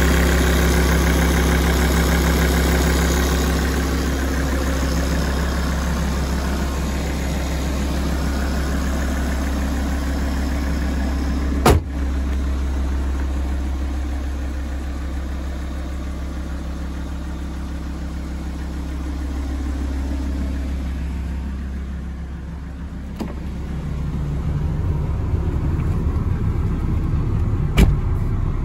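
Alfa Romeo 166 2.4 JTDm five-cylinder diesel idling steadily while warming up, with two sharp clicks, one about halfway through and one near the end. In the last few seconds the even engine hum fades and the sound turns rougher and noisier.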